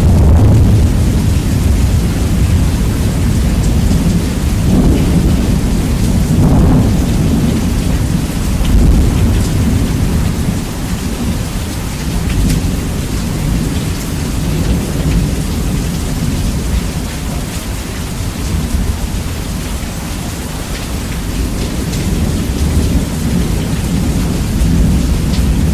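Heavy rain with rumbling thunder, bass boosted until it distorts, heavy in the low end, with a couple of brief swells in the first seven seconds.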